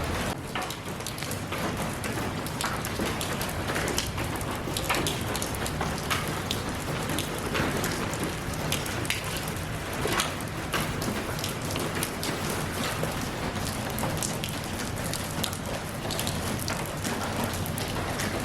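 Steady rain falling, with many individual drops ticking sharply on a hard surface over a continuous hiss.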